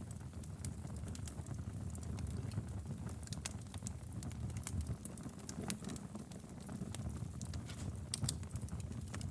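Wood fire burning in a fireplace: a steady low rumble of the flames with many small, irregular crackles and pops.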